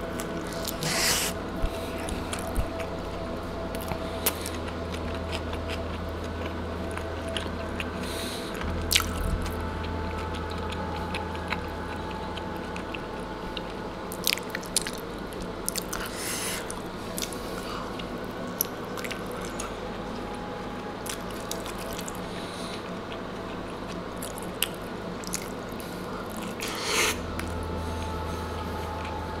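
A person chewing and biting into a chicken tortilla wrap right at a clip-on microphone: wet mouth clicks and smacks throughout, with a few louder bites.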